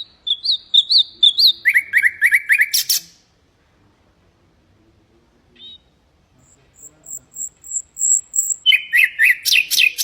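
Common nightingale singing two song phrases. Each phrase is a run of quick repeated notes that ends in a harsh, buzzy rattle; the second phrase, after a pause of about three seconds, opens with a string of very high, thin notes.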